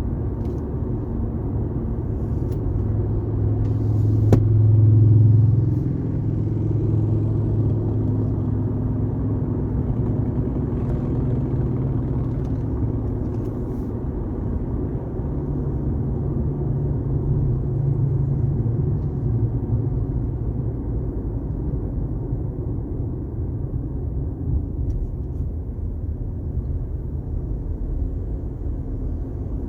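Car driving at highway speed: a steady low rumble of tyres and engine that swells louder about four to six seconds in.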